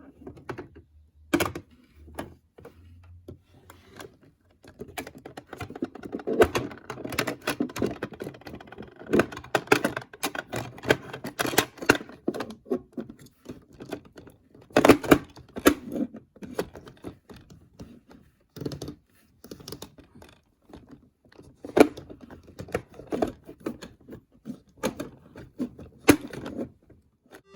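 Makeup containers and cases being handled: a long irregular run of small clicks and taps, with a few louder knocks.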